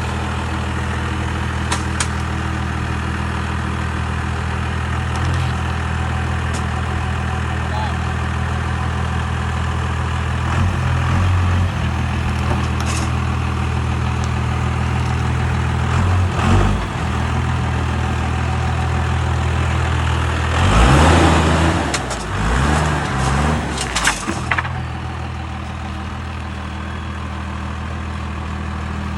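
Vehicle engine idling steadily, with a louder, noisier stretch about twenty seconds in where the engine note shifts.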